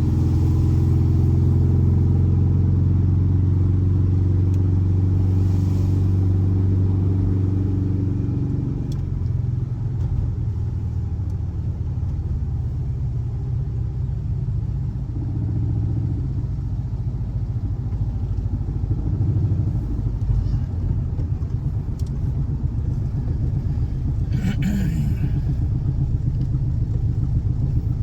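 Volkswagen air-cooled 1584cc flat-four boxer engine running. It holds a steady speed at first, then about nine seconds in it drops to a lower, rougher, pulsing run. A brief higher-pitched noise comes near the end.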